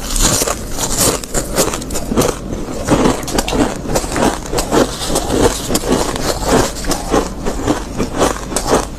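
Close-miked mouth chewing a mouthful of soft freezer frost: crisp crunching bites at first, then steady crunchy chewing about twice a second.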